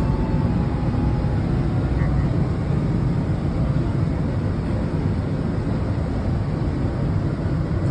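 Washington Metro train running on the rails, a steady low rumble with no distinct events.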